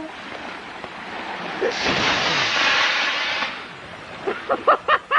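A model rocket motor burning: a sudden rushing hiss that starts about two seconds in, lasts roughly two seconds, then cuts off. Faint voices follow near the end.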